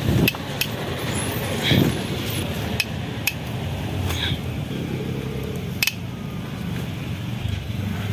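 Metal tools and engine parts clinking and knocking now and then while the engine's bottom end is taken apart, over a steady low hum.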